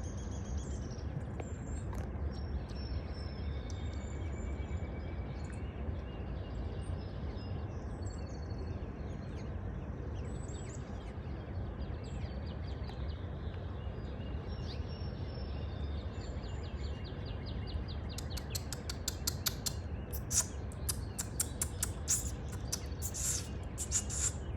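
Songbird singing: scattered high, thin chirps and whistles, then from about three-quarters of the way in a fast run of sharp, louder chirps. A steady low rumble lies underneath.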